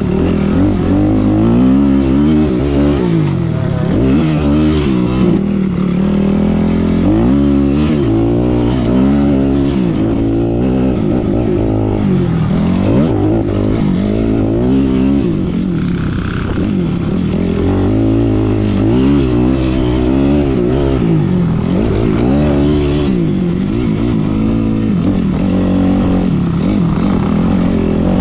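Kawasaki KX65 two-stroke motocross bike being ridden hard, its engine revving up and dropping back over and over as the rider accelerates, shifts and rolls off for jumps and corners.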